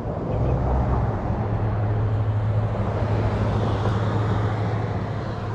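Motorcycle engine running steadily, an even low hum under road and wind noise that swells about half a second in and then holds.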